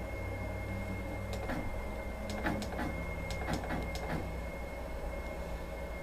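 Butterfly embroidery machine humming steadily while powered on, with a run of about eight irregular mechanical clicks between one and four seconds in.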